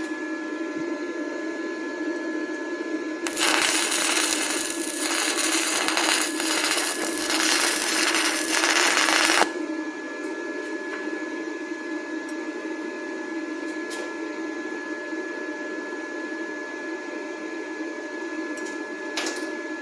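Stick-welding arc crackling for about six seconds, starting a few seconds in and cutting off suddenly. The arc comes from a 6013 rod burning at 32 amps on an inverter welder, over a steady hum. A few faint clicks follow.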